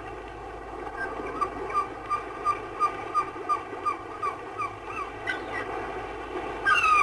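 Seagulls calling: a rapid series of short cries, about three a second, then two longer, louder cries near the end, over a steady wash of waves.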